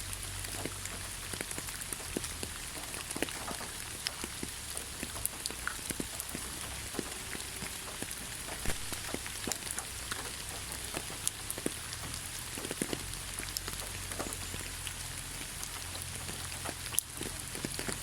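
Light rain falling on leaves: a steady hiss with many separate drops ticking irregularly, one sharper drop near the end.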